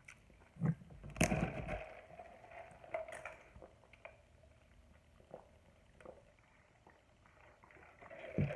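Mukbang eating sounds: wet chewing and mouth noises with scattered small clicks and knocks, and a louder rustle of food handling about a second in.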